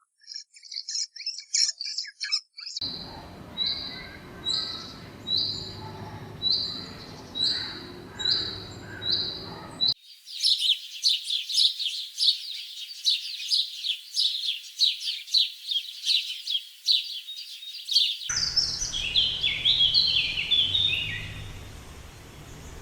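Small birds calling in several abruptly changing passages. First come scattered high chirps, then a single note repeated evenly about every 0.7 s. Next is a dense run of rapid chirping, and near the end a series of notes that step down in pitch.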